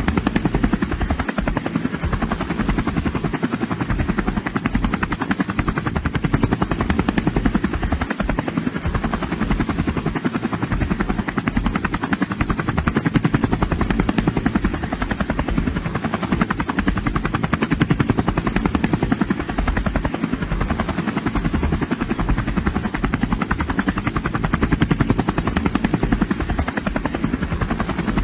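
A motor running steadily with a fast, even pulsing chop, unchanged throughout.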